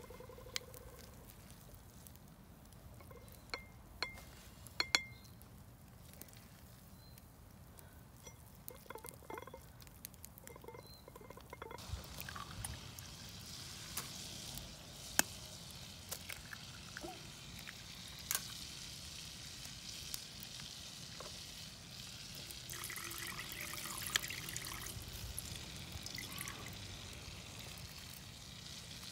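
Campfire cooking: metal utensils clinking sharply against a pan or dish. About twelve seconds in, a steady sizzle of food frying starts up, with more clicks and clinks over it.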